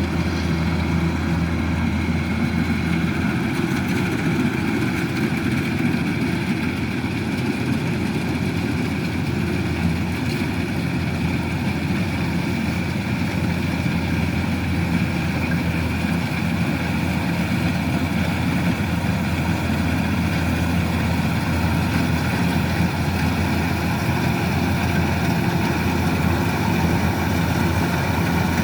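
Kubota DC-105X rice combine harvester running steadily, its diesel engine giving a continuous, even low drone.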